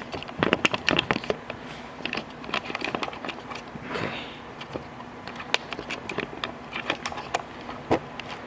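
Handling noise: many irregular clicks, taps and light knocks with some rustling, as a camera is being set in place.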